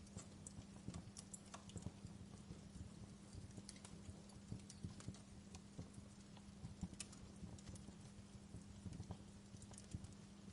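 Wood fire crackling in a fireplace: faint, irregular pops and snaps over a low steady hum.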